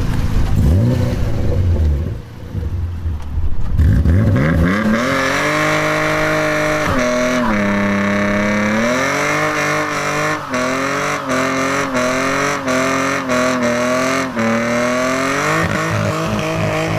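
BMW E36's inline-six engine running hard: a low rumble at first, then from about four seconds in the engine note climbs, drops and climbs again, revving up and down repeatedly under throttle.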